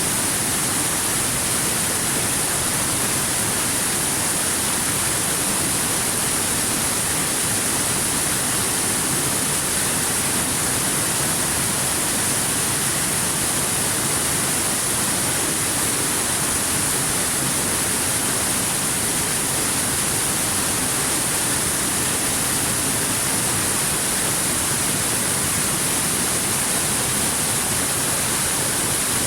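Waterfall: a steady, unbroken rush of falling water with a bright hiss on top.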